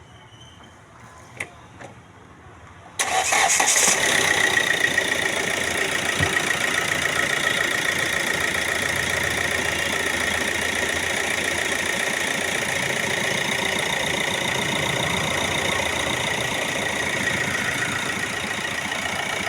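A few faint clicks, then about three seconds in the Hyundai Creta's common-rail diesel engine starts and settles into a steady idle. It runs smoothly, without the rattle it had at start-up before its injectors were recoded to match the ECU.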